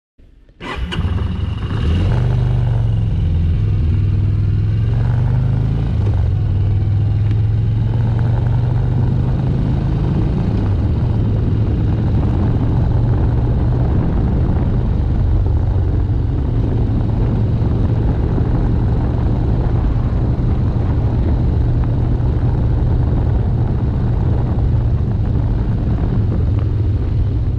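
Motorcycle running on the road, with a loud steady engine drone and road noise. The pitch shifts a few times in the first several seconds as it gets under way, then it holds steady.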